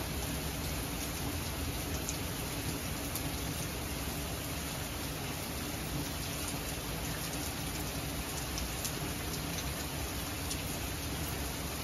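Steady heavy rain falling on the lawn and street, with scattered sharp ticks of drops landing close by.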